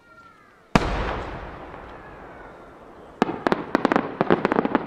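A large aerial firework shell bursting with one loud boom that dies away slowly. About two and a half seconds later comes a quick string of a dozen or so sharp cracks as its cluster of small sub-bursts goes off.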